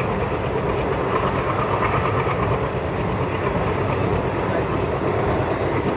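Passenger train running along the track: a steady rumble of the wheels and coach.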